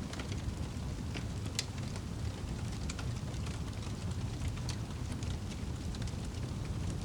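Wood fire burning in a fireplace: a steady low roar of the flames with irregular sharp crackles and pops scattered through, a few more prominent ones about a second and a half in and near three and five seconds.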